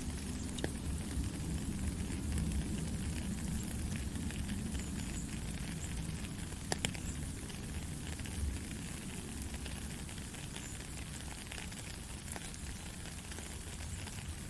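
Heavy rain falling steadily, a dense hiss with scattered sharp drop ticks and a low rumble underneath. One sharper tick comes about seven seconds in.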